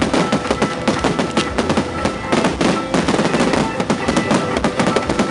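Fireworks display: a dense barrage of aerial shells bursting, with many bangs and crackles in quick, irregular succession.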